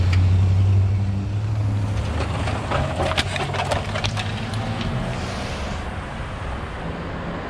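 A motor vehicle's engine running with a low drone that fades over the first couple of seconds. A cluster of sharp clicks and rattles follows in the middle.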